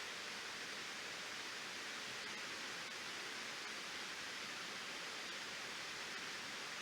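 Waterfall rushing steadily: an even, unchanging hiss of falling water.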